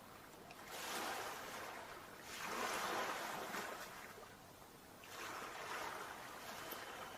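Sea waves washing in, three surges of surf, each lasting a little over a second.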